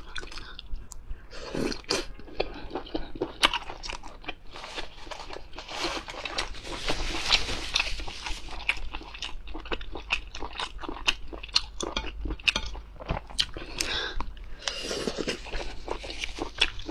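Close-miked chewing and biting of skewered whelk (sea snail) meat: a dense run of short clicking and crackling mouth sounds.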